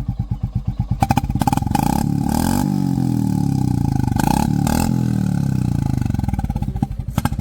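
Royal Enfield Classic 350 Reborn's single-cylinder engine through an aftermarket HK Indori silencer, idling with a slow, even thump, then revved up and let back down for a few seconds before settling back to idle near the end.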